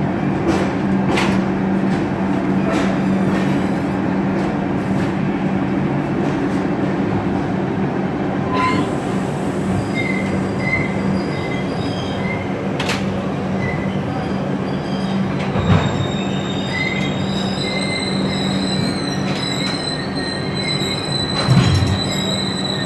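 Passenger train running slowly along a station platform, heard from the open coach doorway: a steady rumble with scattered clicks. A high, thin wheel squeal comes in about two-thirds of the way through, with a couple of louder knocks.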